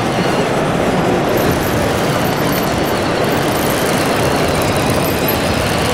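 Steady engine-like running noise with no clear rhythm or pitch changes.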